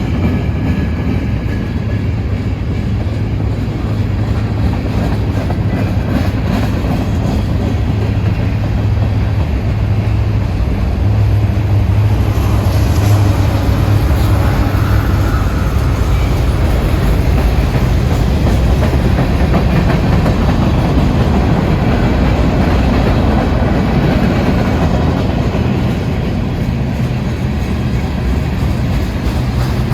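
Freight train rolling past: a loud, steady rumble of wheels on the rails that goes on without a break.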